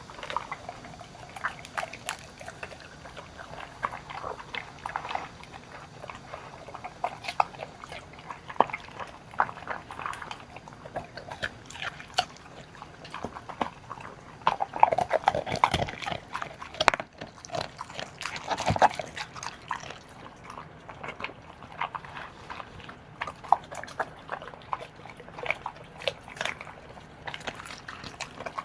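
Dogs eating a freshly made homemade meal: irregular chewing, wet lapping and clicks of teeth and bowl, busiest around the middle.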